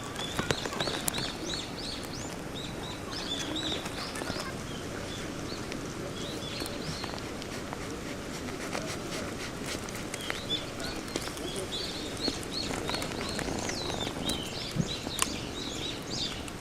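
Small birds chirping, many short repeated chirps, with a few faint clicks over a steady outdoor background.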